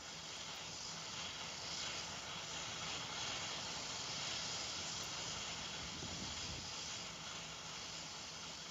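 Steady, even hiss of background noise with a faint low hum, no distinct events.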